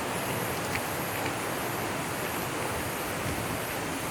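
Steady rushing roar of a waterfall, an even noise of falling water with no break. A faint high-pitched whine comes and goes over it.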